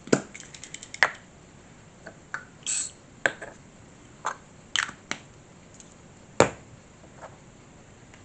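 Scattered sharp clicks and taps of small model parts and tiny screws being handled, the loudest just after the start, about a second in and about six seconds in, with a brief soft rustle near three seconds.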